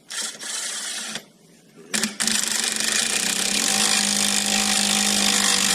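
Impact wrench hammering on the bolt of a ball joint puller: a short burst of about a second, then a continuous run of about four seconds whose pitch steps up slightly partway through, as the puller is tightened to force the ball joint stud out of the ATV's steering knuckle.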